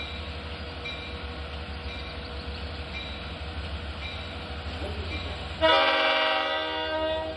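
Long Island Rail Road diesel locomotive horn sounding one long blast near the end, over the steady low rumble of an idling diesel train.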